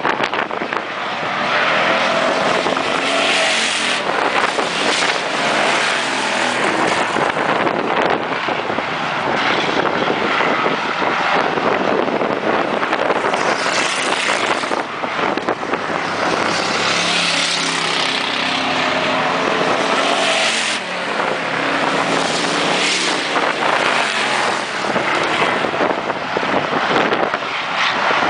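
Race cars lapping a track, their engines running loud and continuous. The sound swells and pitches up and down several times as the cars pass by.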